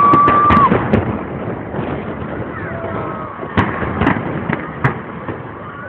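Fireworks salute bursting: a run of sharp bangs at the start and several more cracks a few seconds in. A steady high whistle lasts about a second at the very start.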